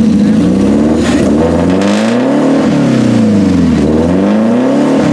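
Historic car's engine running loud under acceleration, its pitch climbing and dropping twice.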